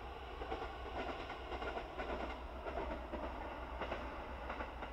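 Two-car KiHa 40 diesel railcar train running past over a steady low drone, its wheels clicking irregularly over the rail joints.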